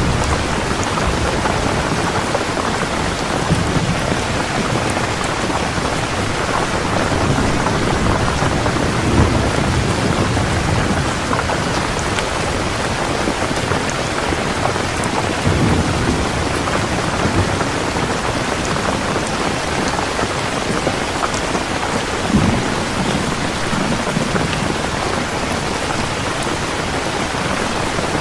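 Heavy rain falling steadily in a thunderstorm, with low rolls of thunder swelling a few times.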